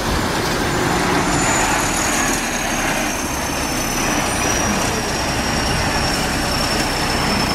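Diesel engine of a heavy Soviet snow-clearing tractor or bulldozer running steadily as it works, with a thin high whine that slowly falls in pitch.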